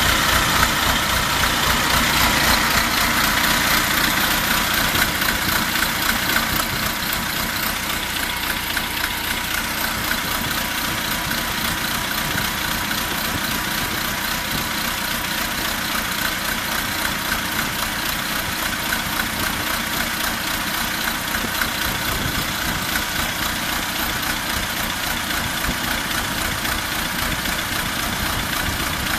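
T-40 tractor's D-144 air-cooled four-cylinder diesel running unevenly, a continuous rapid clatter of firing strokes, a little louder in the first few seconds. The uneven running persists despite a rebuild with a new piston group, bearings and valve guides, head repair and new injector nozzles.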